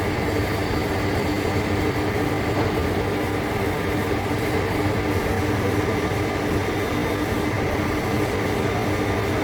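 Heavy-duty lathe running steadily while turning a large steel part: a constant machine drone, with several steady tones over a noisy rumble.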